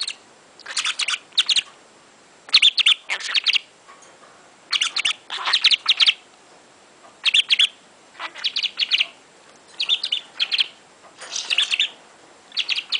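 Pet budgerigar chirping in short bursts of rapid clicky notes, about one burst every second or so.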